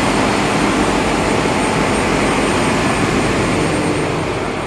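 Ship's engine-room machinery running: a loud, steady mechanical drone with a faint high whine, easing slightly near the end.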